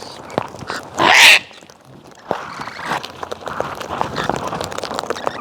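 A wild cockatoo screeches once, a loud harsh burst about a second in. It is followed by a softer scratchy haze with many small clicks from the flock on the ground.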